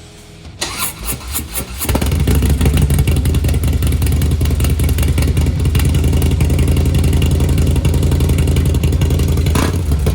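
Harley-Davidson Dyna S V-twin with a Two Brothers (TBR) exhaust being started: the starter cranks for about a second, then the engine catches and runs steadily and loudly. The exhaust is loud because the mufflers have blown out their fiberglass packing.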